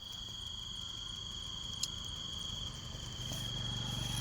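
A cricket trilling continuously on one steady high pitch, with a single faint click partway through.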